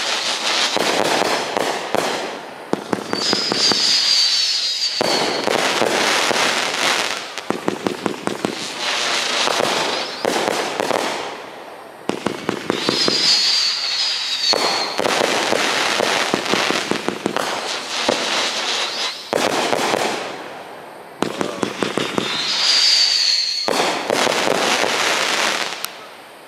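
Consumer fireworks going off overhead: dense runs of rapid crackling pops with short lulls between them. A high, slightly falling whistle sounds three times, about ten seconds apart.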